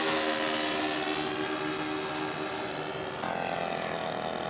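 Engine and propeller of a radio-controlled scale model airplane droning steadily in flight, slowly getting a little quieter, with an abrupt change in the tone about three seconds in.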